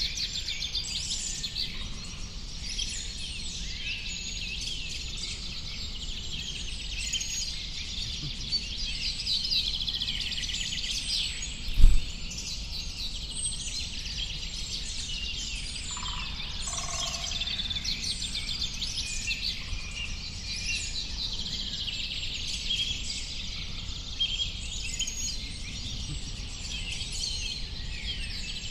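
Many small birds chirping and twittering together, a dense chorus of overlapping high calls and trills that never lets up. A single brief low thump sounds about twelve seconds in.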